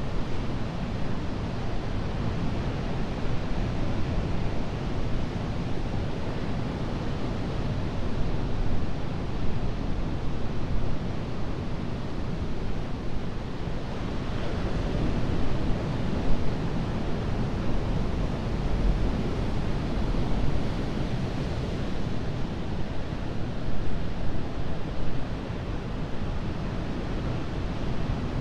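Atlantic surf breaking and washing on a sandy beach, a steady roar of rushing water that swells a little as waves come in, about halfway through and again near the end. Some wind rumble on the microphone underneath.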